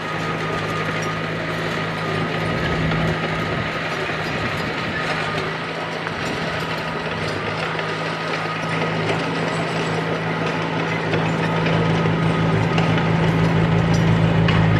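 Komatsu D31P crawler bulldozer working: the diesel engine runs steadily under a constant clanking rattle from the steel tracks, growing a little louder near the end.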